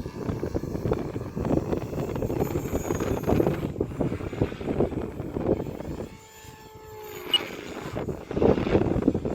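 Electric 3D RC helicopter (Acro480) in freestyle flight: its rotor noise swells and fades as it manoeuvres, drops away about six seconds in, then comes back loud near the end.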